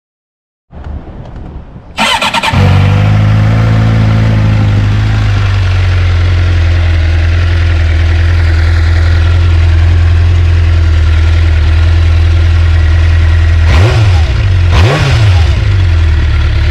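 2009 Suzuki GSX-R600 inline-four sportbike engine started on its stock muffler. The starter cranks for about a second before the engine catches, runs a fast idle that settles after a few seconds, then idles steadily. Two quick throttle blips come near the end.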